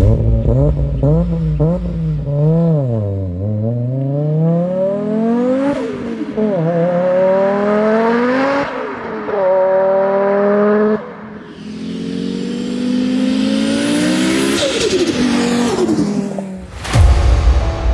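Turbocharged inline-five of an Audi Sport Quattro, tuned to about 700 hp, blipped up and down a few times and then accelerating hard through three upshifts, its pitch climbing and dropping at each shift. A loud burst comes near the end.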